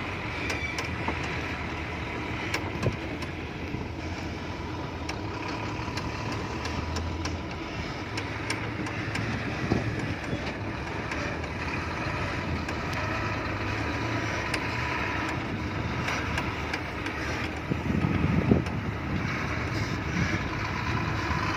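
Diesel engine of a heavy ten-wheel truck running steadily at low speed over a rough track, with a faint steady whine and scattered knocks, and a louder rattling stretch near the end.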